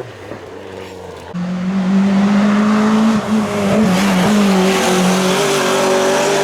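Rally car engine at high revs, loud and held at a steady high pitch from about a second in, with a couple of brief dips in pitch.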